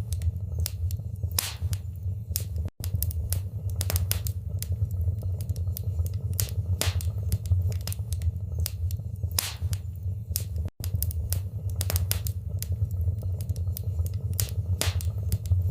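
Wood fire in a fireplace crackling, with sharp pops and snaps several times a second over a steady low rumble of the flames. The sound cuts out for an instant twice, about three seconds in and near eleven seconds.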